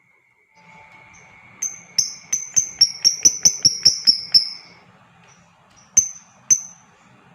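Lovebird calling in a rapid series of sharp, high-pitched chirps, about three a second for some three seconds, then two more single chirps. A faint steady high tone runs under the first half.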